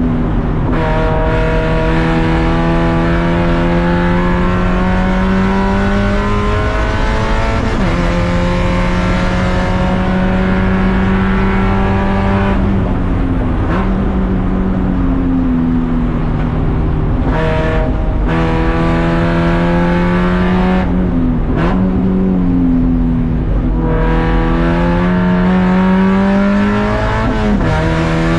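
Race car engine under hard driving, its revs climbing steadily and then dropping sharply with gear changes about five times, over a steady rush of road and tyre noise.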